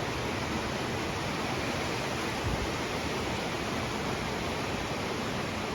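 Cold-front rainstorm, the rain pouring down in a steady, even hiss.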